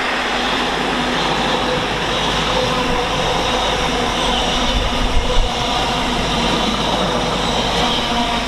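Freightliner Class 66 diesel-electric locomotive, its two-stroke V12 diesel running steadily, passing at speed with a freight train, the wagons' wheels drumming on the rails. A couple of low bumps come about five seconds in.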